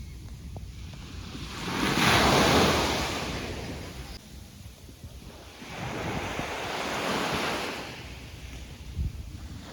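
Sea waves washing in on the shore, two swells rising and falling away, the first the louder, with wind rumbling on the microphone.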